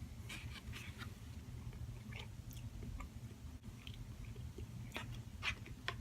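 A person chewing food close to the microphone: soft, irregular mouth clicks and smacks over a steady low hum.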